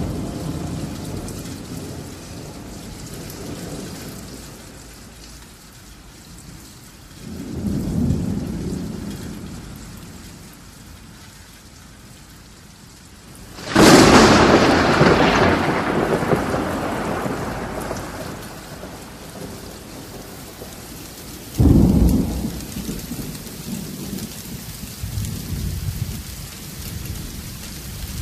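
Thunderstorm with steady rain. A low roll of thunder comes about 8 s in, a loud, sudden thunderclap about 14 s in rumbles away over several seconds, and another sharp clap follows about 22 s in.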